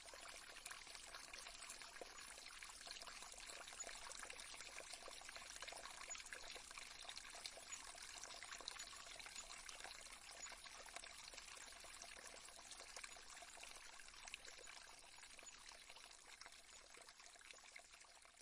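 Faint recorded stream sound: water trickling and running steadily over stones, slowly fading out near the end.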